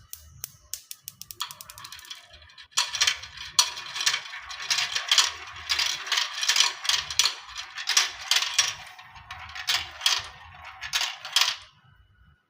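Marbles running through a marble run. First come separate clicks that speed up, then a short rolling whir, then a long stretch of dense clicking and rattling that stops abruptly near the end.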